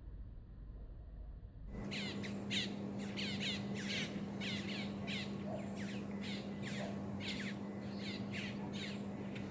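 Birds calling in a rapid series of short, falling squawking notes, about two a second, starting about two seconds in over a steady low hum.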